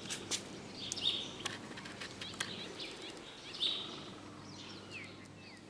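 Small birds chirping in short high bursts, with quick downward-slurred notes, over a steady low hum and a few sharp clicks.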